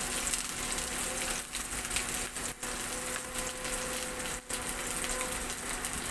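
Hilsa fish roe sizzling and crackling as it shallow-fries in hot oil in a pan, with three brief dropouts in the sound.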